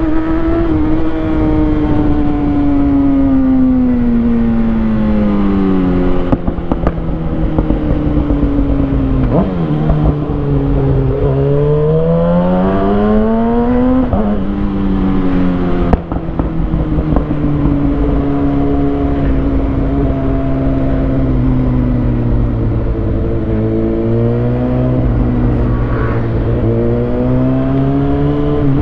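2020 Kawasaki Ninja ZX-6R's inline-four engine through a Lextek SP7C carbon exhaust with decat headers. Revs ease off, then climb steadily from about ten seconds in and drop sharply around fourteen seconds. They hold lower for a while and rise and fall again near the end.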